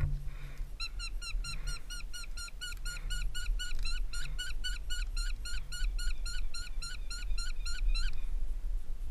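A bird calling a long, rapid series of sharp, evenly spaced notes, about five a second, starting about a second in and stopping near the end.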